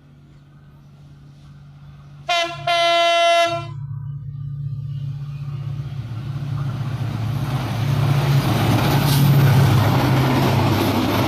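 Diesel train locomotive: its engine hums low and steady, its horn gives a short toot and then a held blast about two seconds in, and afterwards the rumble of the approaching train grows steadily louder.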